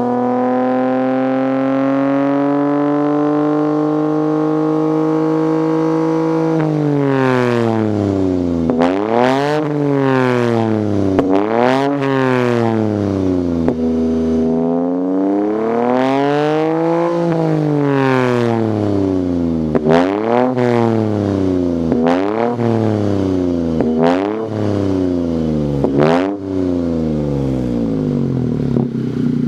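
Lexus LBX Morizo RR's 1.6-litre turbocharged three-cylinder engine heard through a Kakimoto Racing LCO306 aftermarket muffler. Its engine speed climbs slowly for about six seconds, then it is revved in a long series of quick blips that rise and fall, with short sharp cracks at the top of several, before settling back to idle near the end.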